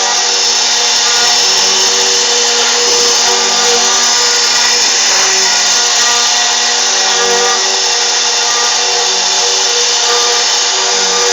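CNC router spindle running steadily while it carves, a constant whine made of several steady tones over a noisy hiss.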